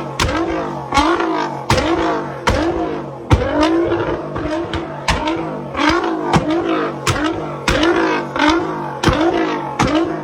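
Nissan GT-R's twin-turbocharged V6 being blipped over and over, about one quick rev every 0.7 seconds. Each rev rises and falls in pitch and opens with a sharp exhaust pop, the bangs of a car set up to shoot exhaust flames.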